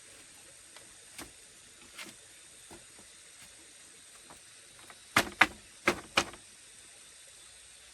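Four sharp knocks in quick succession about five seconds in, with a few faint taps earlier, over a steady faint hiss.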